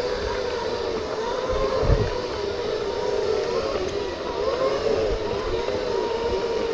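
Segway's electric motors whining, the pitch wavering up and down as it speeds up and slows, with low wind rumble on the microphone and a low thud about two seconds in.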